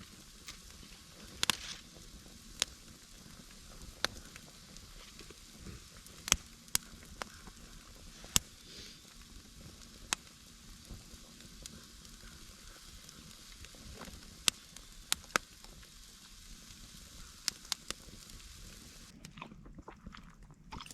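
Food sizzling over an open campfire: a steady hiss broken by about a dozen sharp crackling pops, every second or few. The hiss stops abruptly near the end.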